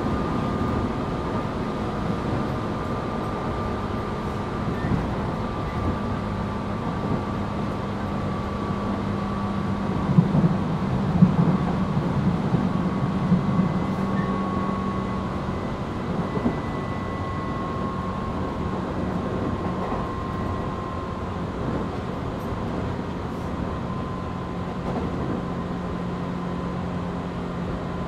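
Tobu 8000 series electric train running, heard from inside motor car MoHa 8270: a steady rumble of wheels on rail with a thin whine that slowly falls in pitch. There are a few louder clatters about ten to thirteen seconds in.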